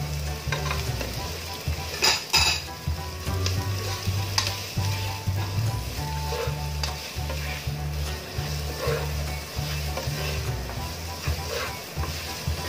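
Chopped garlic, onion and ginger sizzling in hot oil in a nonstick pan while a spatula stirs and scrapes them, with a couple of sharper scrapes about two seconds in.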